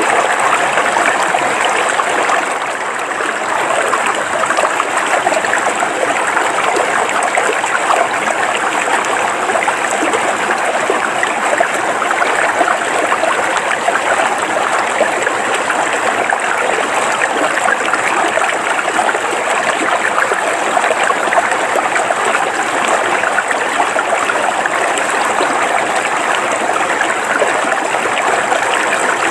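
River water flowing steadily over rocks: a continuous rushing and burbling.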